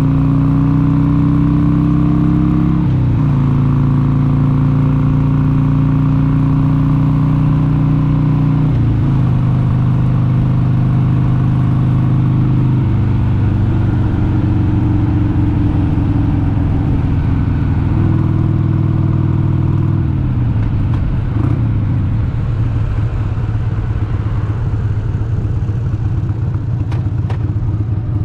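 1996 Harley-Davidson Sportster 883 Hugger's air-cooled V-twin running under way. Its pitch drops suddenly about 3 and 9 seconds in, as at upshifts. About 20 seconds in the revs fall and it settles to a lower, rougher beat, as when the throttle is rolled off.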